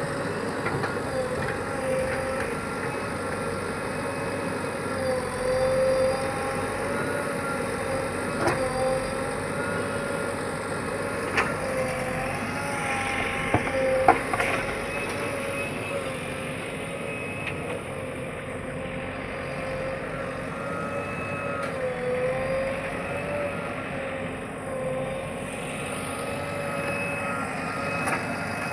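JCB excavator's diesel engine running steadily while digging soil, its note wavering slightly with the load, with a few sharp knocks about a third and halfway through.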